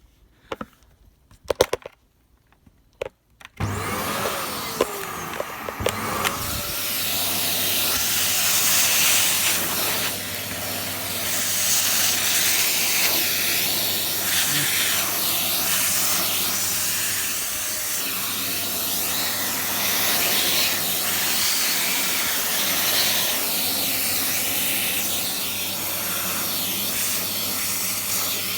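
A few sharp clicks, then about three and a half seconds in a Dyson CY28 canister vacuum cleaner switches on. Its motor whine rises as it spins up, then runs steadily with a loud rushing suction noise as the crevice tool sucks up broken glass ornament pieces.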